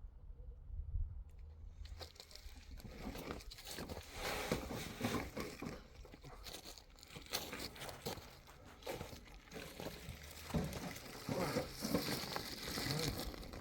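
Irregular crinkling and crunching noises, many small scrapes and knocks close together, starting about two seconds in.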